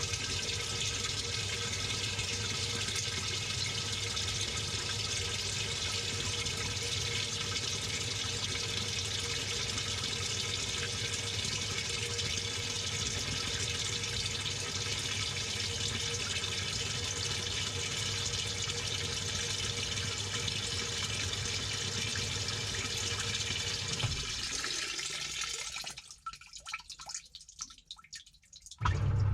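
Water running into the tub of a Samsung top-load washing machine, heard from inside the drum, steady with a low hum, cutting off about 24 seconds in. After a few quieter seconds a loud rush of water starts near the end.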